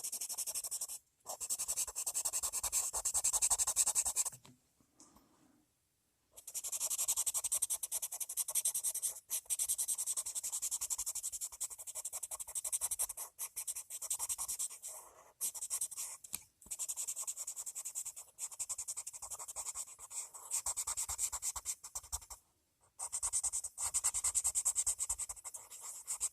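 Green colored pencil shading on paper: rapid back-and-forth scratching strokes in long runs, with a pause of about two seconds around five seconds in and a brief pause near the end.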